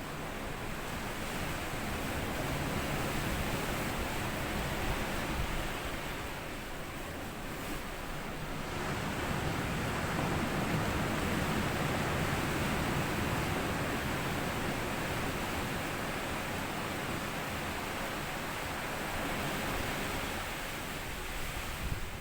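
Small sea waves washing in and out over a sandy beach, a continuous wash of surf that swells and eases over several seconds.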